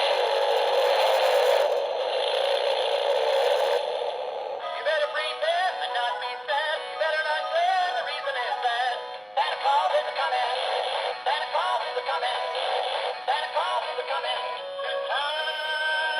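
Tinny electronic Christmas tune with a synthesized singing voice, thin and without bass. The first four seconds are a hissy, rattling sound under a wavering tone; the singing melody comes in about four seconds in.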